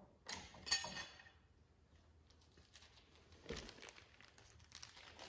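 Hands handling small metal wheel-assembly parts: two quick clattering clinks with a brief metallic ring within the first second, then a few faint knocks and rustles.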